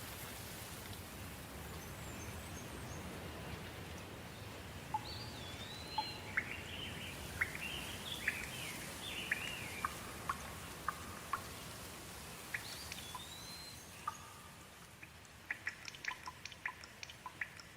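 Soft rain falling steadily, with a bird calling in the middle: rising and falling whistled notes and short chirps. Toward the end the rain thins and separate drops drip and tap.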